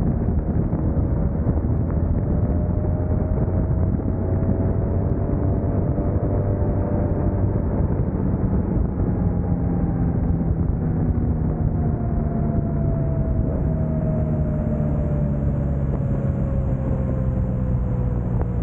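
Motorcycle riding in freeway traffic: continuous engine and road noise, with a tone that slowly falls in pitch through the second half.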